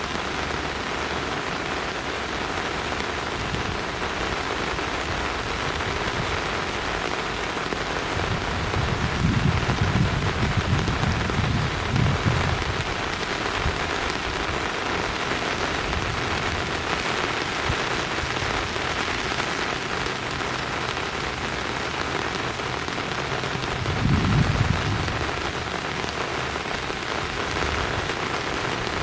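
Steady rain falling, an even hiss throughout, with low rumbles twice, about nine seconds in and again near twenty-four seconds.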